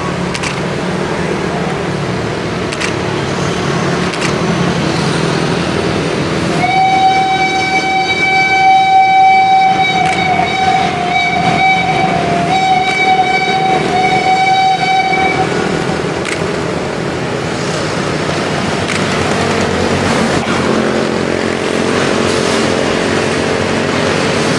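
Steam locomotive whistle blowing one long blast of about nine seconds, starting a few seconds in and broken by three brief gaps, over the steady rumbling noise of the train.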